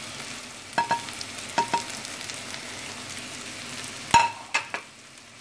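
Onions and spice masala sizzling in oil in a clay pot as they are stirred, with a spoon knocking against the pot several times, in pairs about one and two seconds in and three times near the end, the first of those the loudest.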